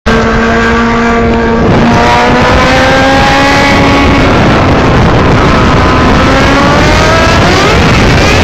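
Kawasaki Ninja ZX-6R 636 inline-four with its muffler removed, running straight-piped under way: it holds a steady note for a second or two, then climbs in pitch as it accelerates, eases off and climbs again near the end. Heavy wind rush on the microphone runs under it.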